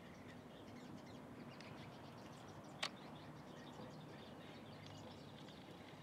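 Faint, scattered high bird chirps and tweets, with one sharp click about three seconds in.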